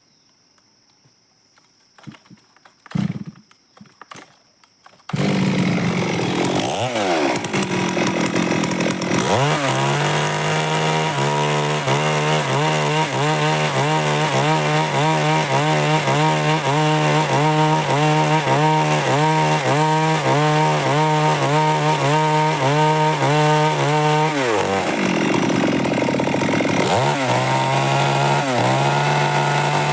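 A few light knocks, then a Stihl MS 382 two-stroke chainsaw comes in suddenly about five seconds in. It revs up twice, then holds steady full-throttle revs for about fifteen seconds. It drops back briefly and revs up to full throttle again near the end.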